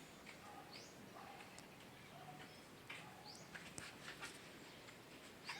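Near silence: room tone with a few faint, short chirps of distant birds.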